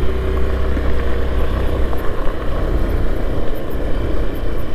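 Motorcycle running at a steady pace while being ridden, a constant low rumble under an even rushing noise.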